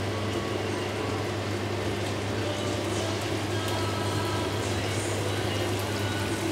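Tofu frying in a wok, a steady sizzle over a low steady hum.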